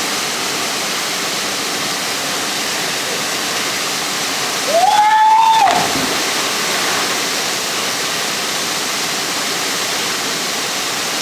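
Waterfall rushing steadily. About five seconds in, a person shouts once, a high call held for about a second.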